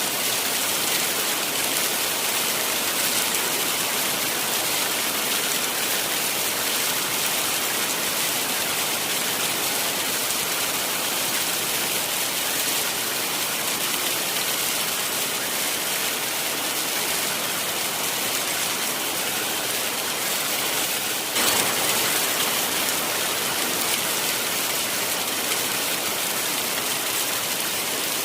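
Heavy rain falling steadily, an even, dense hiss of drops. About three quarters of the way through it steps up a little in loudness.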